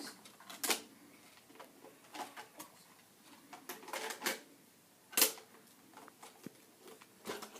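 Plastic toy vehicles being handled, a scatter of short clicks and knocks, the loudest about five seconds in.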